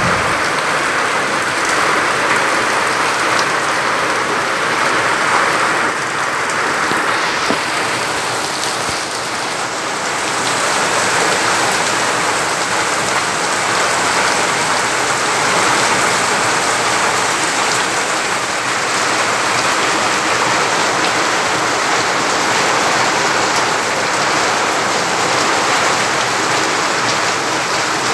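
Heavy rain falling steadily, a loud, even hiss with no letup.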